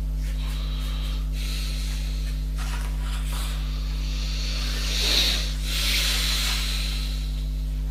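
Steady low electrical hum, with short hissing scrapes of hand work on a surface, the loudest about five to seven seconds in.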